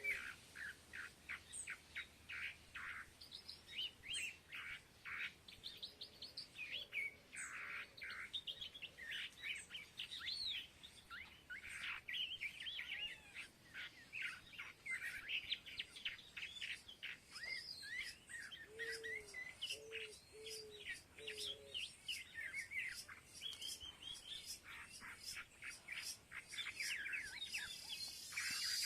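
Many small birds chirping and twittering busily over one another, with a short series of lower, rounder calls near the start and again about two-thirds of the way through.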